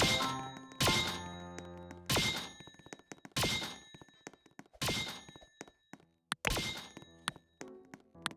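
A series of heavy thunks, about one every second and a half, each followed by ringing tones that fade before the next hit.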